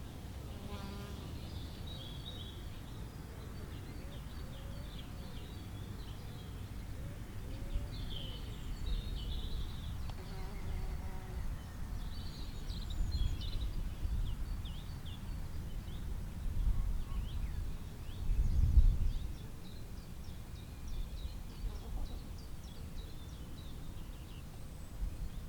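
Small birds chirping and twittering in short, high calls throughout, over a low rumble that swells several times and is loudest about three-quarters of the way through.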